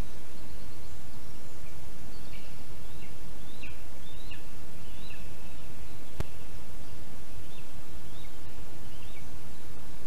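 Steady hiss under forest ambience, with a bird's short chirping calls repeated about a dozen times from about two seconds in until near the end, and a single sharp click just past the middle.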